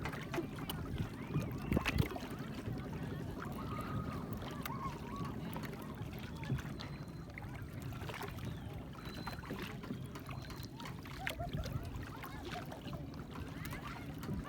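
Motor of a small passenger boat running steadily, a constant low rumble.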